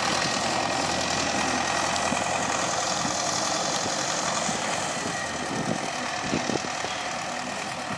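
Vehicle engine running steadily, growing a little quieter over the last few seconds.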